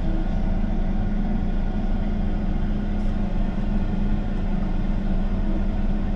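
John Deere combine's engine running steadily while creeping into position, with a constant low hum and drone.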